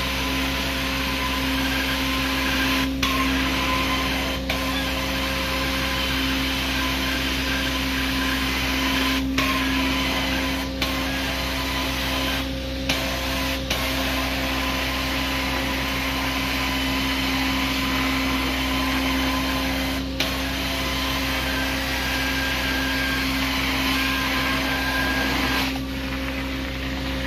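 Carpet-cleaning extraction wand drawing suction across carpet: a steady vacuum rush over a constant machine hum, with a handful of brief dips in the sound.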